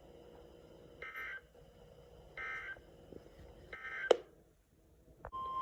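Three short bursts of Emergency Alert System digital data tones, about a second and a half apart: the SAME end-of-message code that closes a National Weather Service severe thunderstorm warning on weather radio. A sharp click follows.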